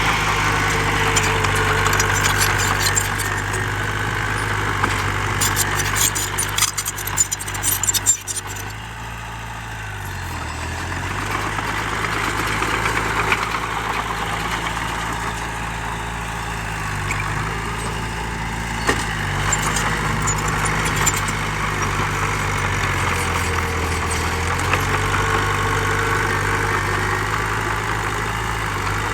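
Heavy diesel engine of earthmoving machinery running steadily, its pitch dropping and coming back up twice, with a spell of rattling and clanking a few seconds in.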